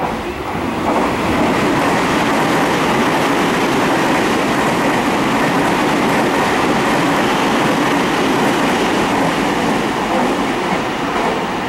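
An electric commuter train running past the platform: a steady rail rumble with wheel clatter that swells about half a second in and eases near the end.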